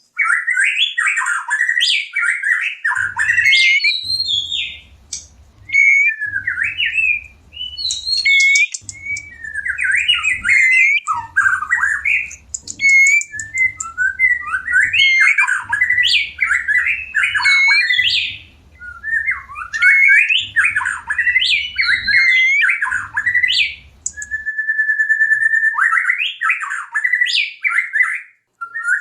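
White-rumped shama singing in bursts of fast, varied whistles, trills and harsh notes, with short pauses between phrases and one long level whistle near the end. These are the calls of shamas in breeding condition.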